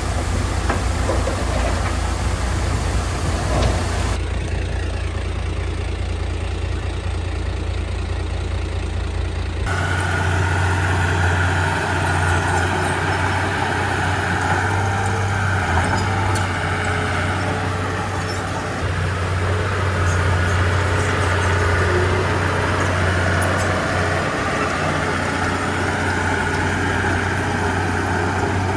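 Heavy diesel engine of earthmoving machinery running steadily, with an abrupt change in its sound about ten seconds in.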